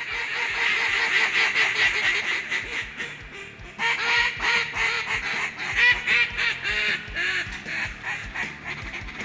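Dense, rapid duck quacking and chatter, many calls overlapping, with a brief lull about three seconds in before it picks up again.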